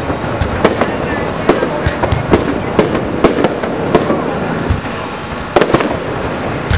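Aerial fireworks display: about a dozen sharp shell bursts at uneven intervals over a continuous crackle, with a short lull a little past the middle.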